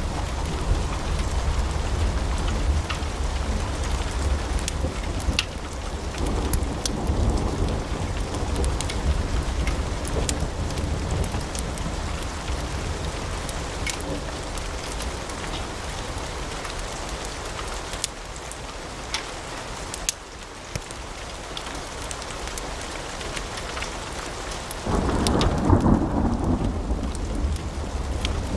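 Log fire in a fireplace crackling, with many sharp pops over a steady low rumble of flames; the rumble swells louder about 25 seconds in.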